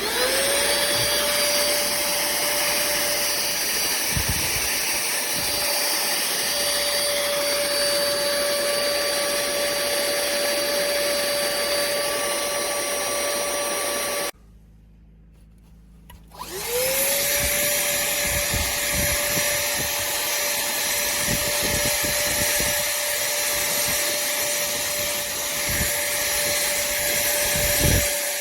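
A pemacom cordless handheld vacuum cleaner switches on and its motor spins up to a steady whine. It runs for about fourteen seconds, switches off, then starts again about two seconds later and spins back up to run steadily.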